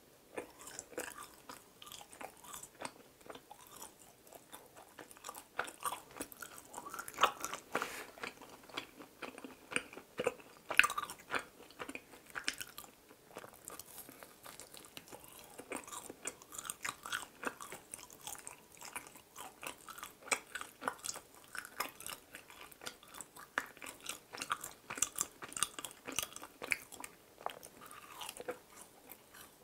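Close-up chewing and biting of mini chapssal donuts (fried glutinous-rice donut balls): a steady run of short, irregular wet clicks and crackles from the mouth, with bites taken along the way.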